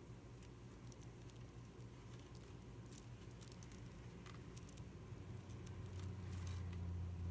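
Faint, scattered small clicks and taps of beads knocking together as they are threaded and sewn onto a journal spine, over a low steady hum.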